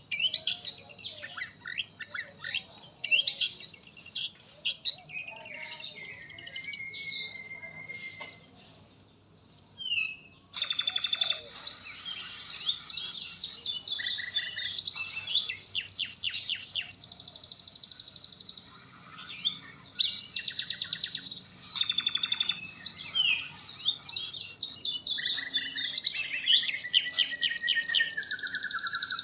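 Murai (white-rumped shama) singing a long, varied song of fast trills, chattering notes and sliding whistles. It pauses briefly about nine seconds in and ends on a long falling whistle.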